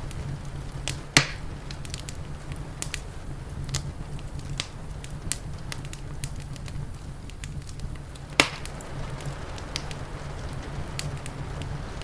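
Wood fire crackling, with scattered small pops and two loud sharp snaps about a second in and near eight seconds in, over a steady low rumble.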